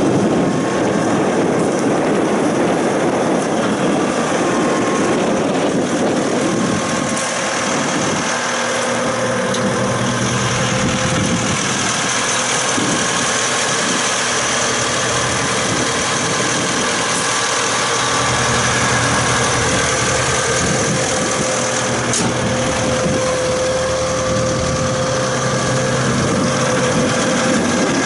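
Caterpillar 249D compact track loader's diesel engine running steadily.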